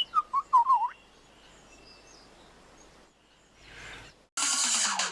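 Superb lyrebird giving a quick run of about four loud warbling calls that bend up and down in pitch, with faint birdsong behind. About four seconds in, a short rising whoosh is followed by loud electronic dance music cutting in.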